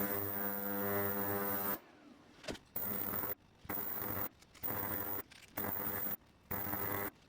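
A steady electric buzz that, from about two seconds in, cuts out and comes back again and again, roughly once a second.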